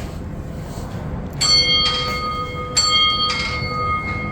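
A bell struck twice, about a second and a half apart, each strike ringing on with a clear, slowly fading tone.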